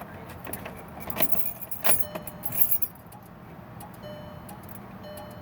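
A key jangling and clicking in the ignition of a 2008 VW Jetta for a couple of seconds. About four seconds in, a steady electronic warning tone starts from the dash and sounds on and off. The car will not start and only clicks.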